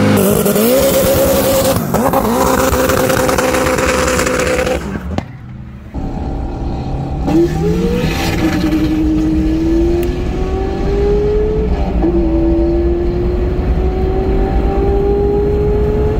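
Car engine at high revs with heavy noise over it for about five seconds, dropping away briefly, then accelerating hard through the gears: the pitch climbs in each gear and falls at shifts near eight and twelve seconds.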